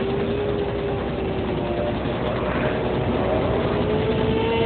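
Train running with a steady whine that climbs slowly in pitch as it gathers speed, over a constant rumble.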